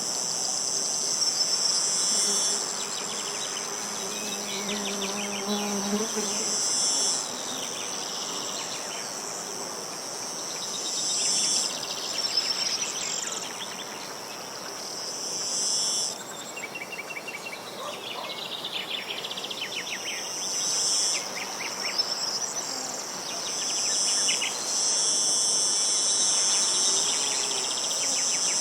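Insects chirring in a high, steady drone that stops and starts every few seconds, with short trilling bird calls in the gaps.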